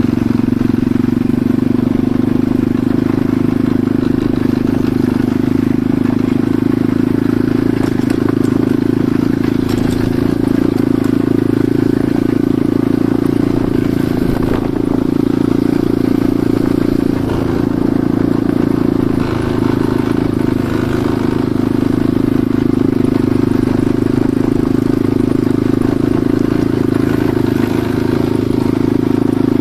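Enduro motorcycle engine running at a steady pitch, heard from on the bike while riding.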